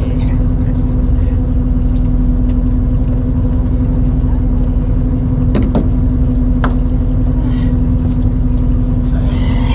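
Fishing boat's engine running steadily, a constant low hum and rumble, with a few short sharp knocks about halfway through.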